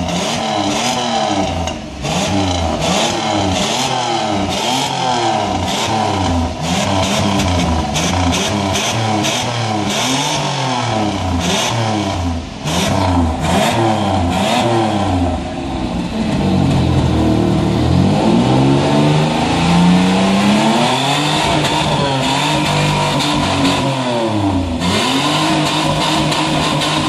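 Pontiac Firebird's V6 engine being revved over and over. The pitch rises and falls about once every second or two, with a longer, higher rev about two-thirds of the way through.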